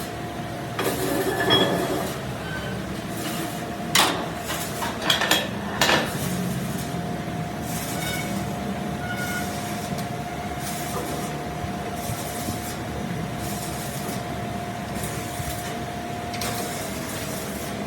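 Metal clanking in a workshop: a few sharp strikes of metal on metal between about four and six seconds in, over a steady machine whine with a single held tone.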